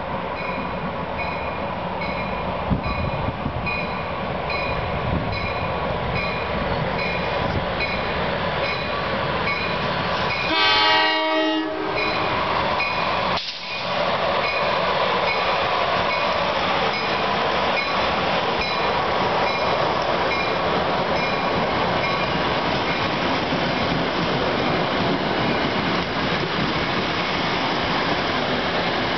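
ALP-44 electric locomotive approaching and sounding its horn in one short blast about eleven seconds in. The passenger cars then roll past with a steady rumble and clatter of wheels on rail. A faint regular ding, about twice a second, sounds under the approach.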